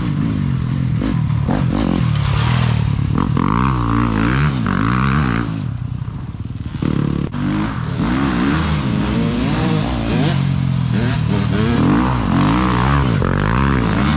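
Pit bike engine revving up and down over and over as it is ridden, easing off briefly about six seconds in before picking up again.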